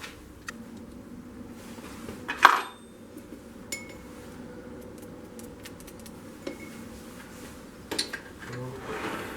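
Metal hand tools clinking and knocking while a thread is tapped by hand into the oiled hole in the engine casting: a few sharp metallic clinks, the loudest about two and a half seconds in and another near the end, with small ticks between.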